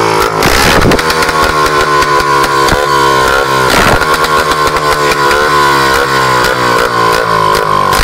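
Izh Planeta 4's single-cylinder two-stroke engine running loud and open with no exhaust system fitted, its speed wavering slightly up and down, with occasional sharp crackles.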